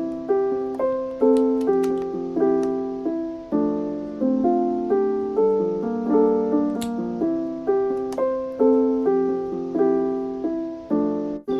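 Background music: a gentle piano melody of evenly paced notes, with a brief break near the end.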